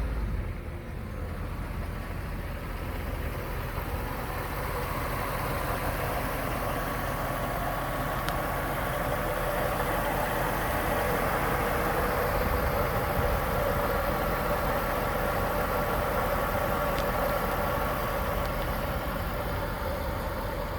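Mercedes-Benz 500E's 5.0-litre V8 idling steadily, just after a rev has died away.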